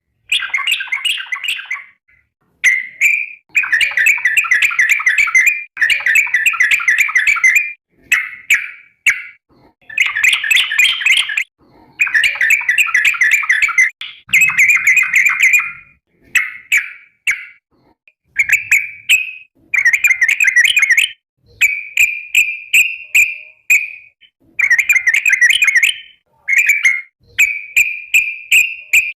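Yellow-vented bulbul (trucukan) singing loudly in repeated bursts of fast, bubbly chattering song, each a second or two long with short pauses between. Near the end the phrases become cleaner and more even. These are the long rolling phrases that bird-keepers call 'ropel', sung here as a call to other bulbuls.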